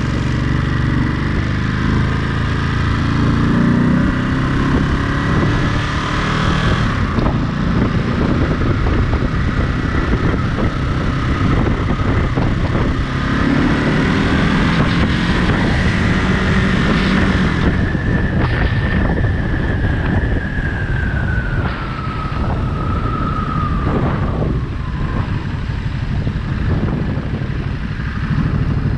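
Ducati Monster 937's 937 cc L-twin engine running under way, pitch climbing as it accelerates a few seconds in and again about halfway, then easing off, with wind rushing over the microphone.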